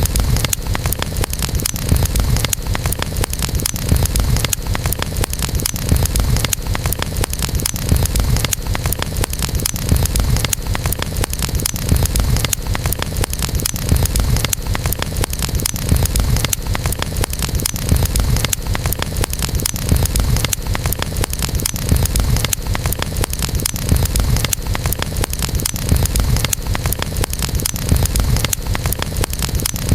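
Campfire burning: a steady low rumble of flames with dense crackling and small pops of burning wood, swelling evenly about every two seconds.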